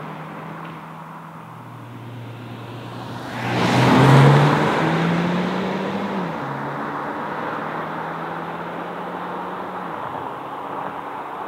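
2019 Hyundai Elantra Sport's 1.6-litre turbo four-cylinder accelerating hard at full throttle, getting loud as the car passes close about four seconds in and then fading as it pulls away. The engine note drops in pitch twice, near the middle and near the end, as the seven-speed dual-clutch gearbox shifts up.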